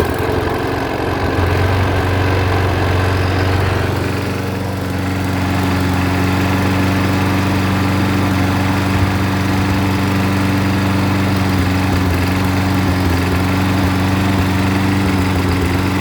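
John Deere JS25 walk-behind mower's Briggs & Stratton Quantum engine running steadily just after a pull start, its auto choke repaired by unhooking the thermostat arm from the choke arm. The note sags slightly about four seconds in, then settles into an even run.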